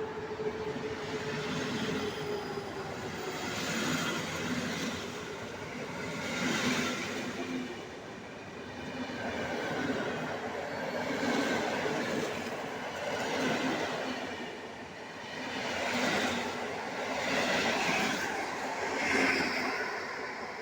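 A train running through a station, its wheels clattering over the track. The sound swells and eases every couple of seconds and dies away near the end.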